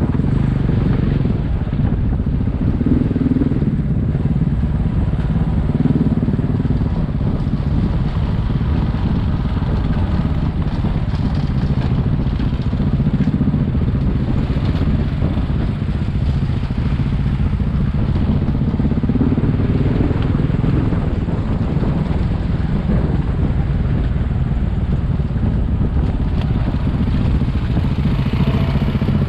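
Single-cylinder dual-sport motorcycle engine running steadily while under way, with slight rises and falls in revs.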